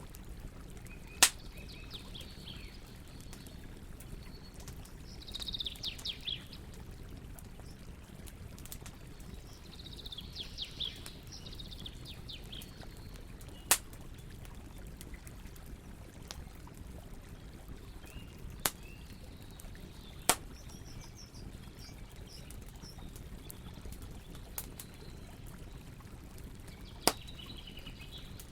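Campfire crackling, with about five sharp, isolated pops over a low steady rush. Birds chirp in short bursts several times.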